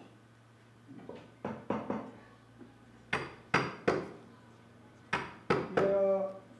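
Sharp wooden knocks in quick groups of two or three, a mallet striking a carving chisel into wood. A brief pitched tone sounds near the end.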